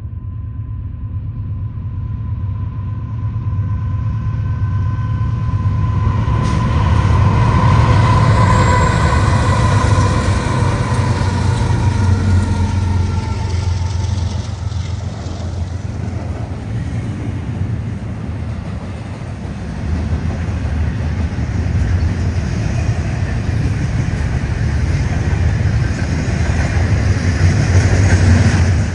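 Union Pacific diesel locomotives hauling a double-stack container freight train past: a deep engine rumble with a steady high whine that is loudest as the locomotives go by and then drops slightly in pitch and fades. After that comes the continuous low rumble and rolling of the stack cars.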